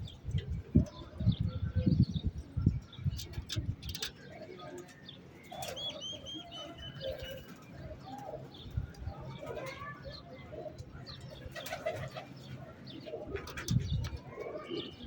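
Domestic pigeons cooing, with a short run of high, quick chirps about six seconds in. For the first few seconds strong wind buffets the microphone with low thumps.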